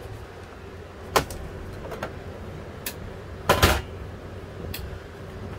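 Air conditioner fan running with a steady hum and rush of air, the compressor not kicking in. A few sharp knocks and clicks break in, the loudest a quick double knock about three and a half seconds in.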